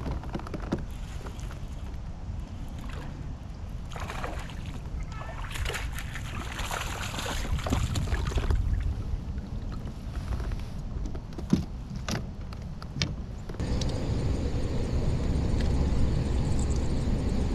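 Wind buffeting the microphone with water sloshing against a kayak, the sloshing louder in the middle, and a few sharp clicks in the second half.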